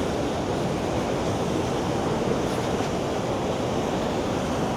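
Waterfall close by, a steady rush of falling water with no let-up.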